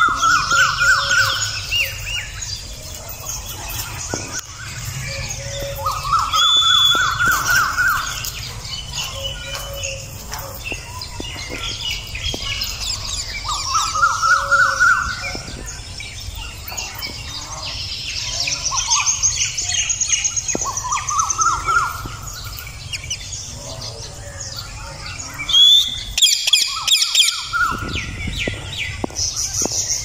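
Birds calling: a pulsing, arching call repeats about every seven seconds, five times, among higher chirps and squawks.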